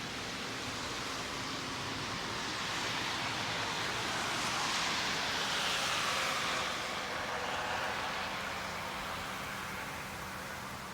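A car passing along the street below, its tyre and road noise swelling to a peak about halfway through and then fading away.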